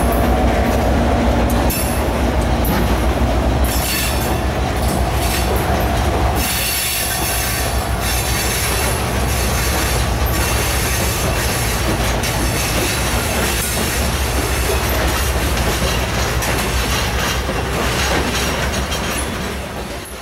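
Freight train of covered hopper cars rolling past close by: a steady rumble of steel wheels on rail with repeated clicks over rail joints and high-pitched wheel squeal at times.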